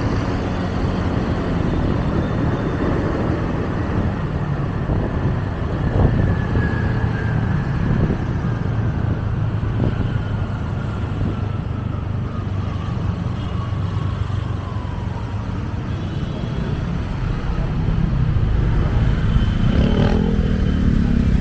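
Road noise from a motorcycle riding in city traffic: a steady low rumble of engine and traffic. A faint whine falls slowly in pitch through the middle, and the engine grows louder near the end.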